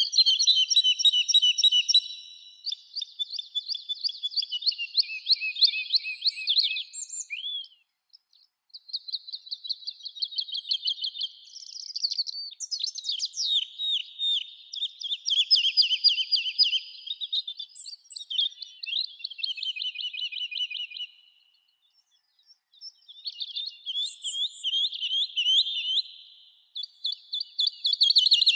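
Small songbirds singing: a string of song phrases, each a few seconds of quick high notes and trills, with short pauses between them.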